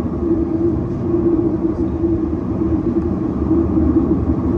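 Cabin noise inside a Boeing 737-800 in flight: the steady, even rush of its CFM56 engines and the airflow, with a constant low hum running underneath.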